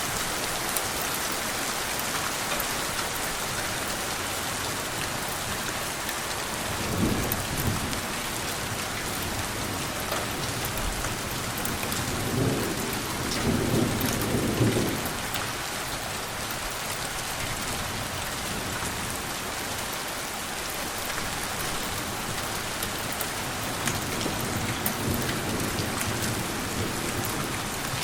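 Steady rain falling, with low rumbles of thunder: a short one about seven seconds in and a longer one towards the middle.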